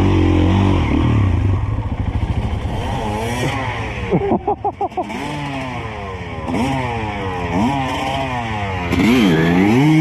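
Enduro dirt bike engine revving up and down again and again as the rider works through a muddy, boggy section, with a quick stuttering burst of revs about four seconds in.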